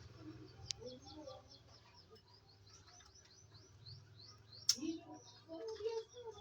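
Small birds chirping in quick, short rising notes, with a sharp click about two-thirds of the way through. Near the end, a run of quick low notes starts, which fits a perkutut (zebra dove) cooing.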